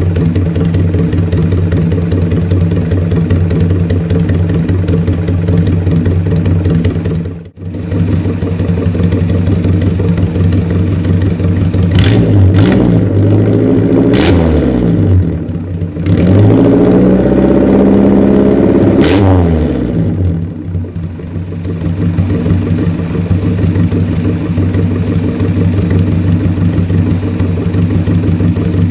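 Suzuki Jimny SJ410's carbureted F10A four-cylinder engine, heard at a 2-inch straight-pipe exhaust with a spoon muffler, idling steadily, then blipped several times and held at higher revs for a few seconds near the middle before dropping back to idle. The valve lash has just been set cold to 0.10 mm intake and 0.15 mm exhaust.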